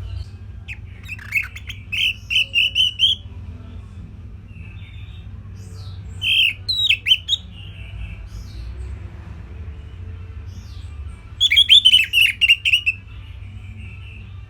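Orange-headed thrush (anis merah) singing: three short bursts of rapid chirping notes a few seconds apart, over a steady low hum.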